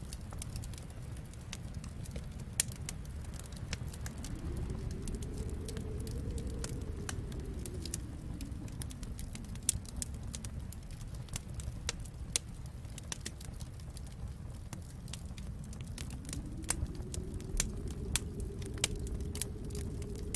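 Wood fire crackling, with frequent sharp pops and snaps over a low steady rumble. A soft low moaning tone slowly swells and fades twice, about four seconds in and again near the end.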